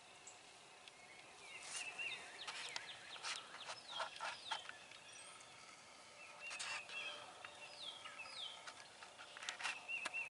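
Wild birds calling: sharp chirps and short down-slurred whistles in three bouts. The first starts about a second and a half in, the second comes around six and a half seconds, and the third near the end.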